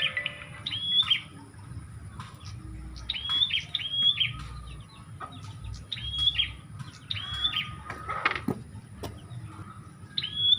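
Prinia (prenjak) calls used as a bird lure: sharp arching chirps in groups of two or three, a group every two to three seconds.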